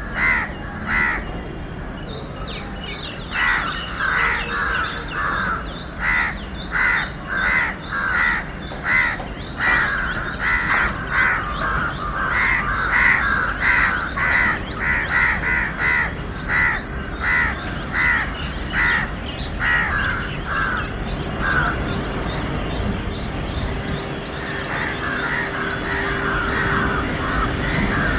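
A bird calling over and over, about two short calls a second, for most of the stretch, then a looser run of calls near the end, over a steady low rumble. A faint steady hum comes in about halfway and slowly grows.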